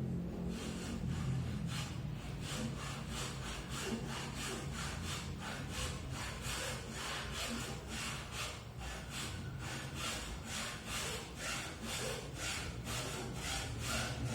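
Wood being worked by hand with steady back-and-forth strokes, about two to three a second, a rasping sound.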